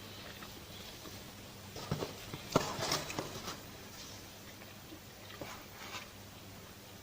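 Eating sounds: a close run of sharp clicks and crackles from chewing and biting about two seconds in, with a few fainter clicks near the end.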